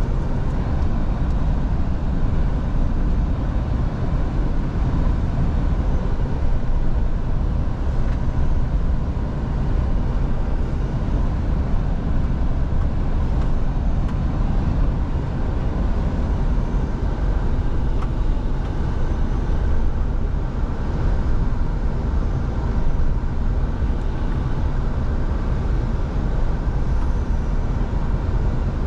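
Scania V8 diesel truck driving at a steady speed: continuous engine drone and road noise, even throughout with no revving or gear changes.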